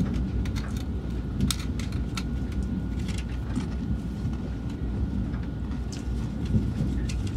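SRT high-speed train running, heard from inside the passenger cabin: a steady low rumble with scattered sharp clicks and a faint steady whine.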